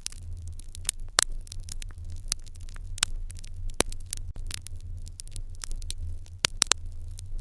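Wood fire in an irori hearth crackling, with frequent sharp pops at irregular spacing over a low steady hum.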